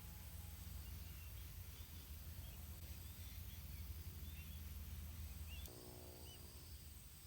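Faint outdoor ambience: scattered short, high chirps from small birds over a steady low hum. The hum cuts off suddenly about six seconds in.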